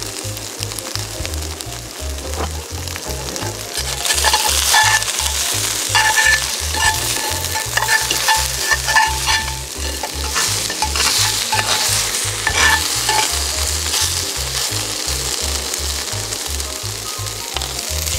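Tsumire meatballs sizzling in a Nitori cast-iron skillet, the sizzle getting louder about four seconds in. A slotted metal turner clacks and scrapes against the pan as the meatballs are turned.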